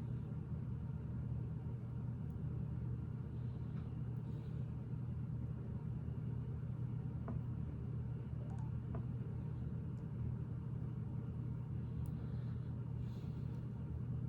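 Steady low background hum with a few faint, sharp clicks of plastic Lego pieces being handled and pressed together.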